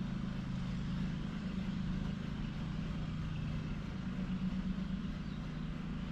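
A motor running steadily: an even low hum over a rumble, with no change through the stretch.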